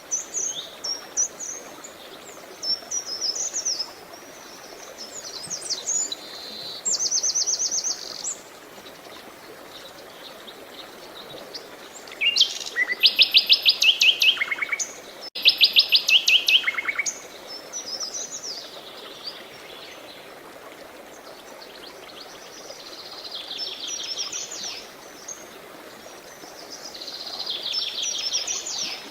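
Several songbirds singing in turn, with chirping phrases and rapid trills; the two loudest trills come around the middle. Under them runs a steady rush of flowing water.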